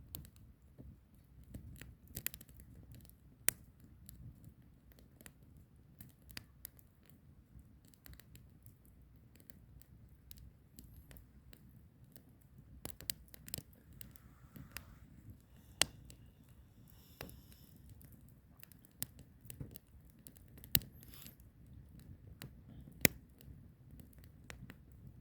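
Wood fire burning, with irregular sharp crackles and pops from the logs over a low, steady rumble of flame.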